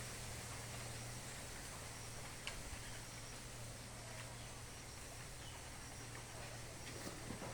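Quiet outdoor nature ambience: a steady hiss with a low hum underneath, faint short high chirps repeating about twice a second through the second half, and a few soft clicks.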